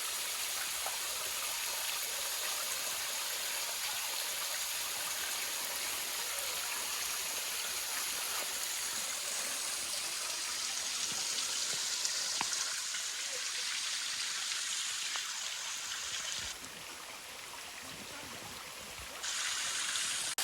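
Low-flow waterfall: a thin fall of water trickling and splashing over a rock bluff, a steady hiss that turns quieter for a few seconds near the end.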